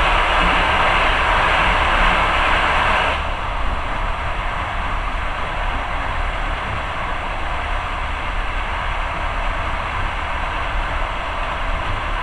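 A passenger train passing close alongside in the opposite direction, a loud rushing noise that cuts off suddenly about three seconds in as its last carriage clears. After that, the steady running noise of the moving train.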